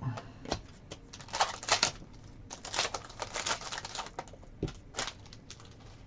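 Crinkling, crackly rustle of a foil trading-card pack wrapper being opened and handled, in two bursts, with a few light knocks before and after.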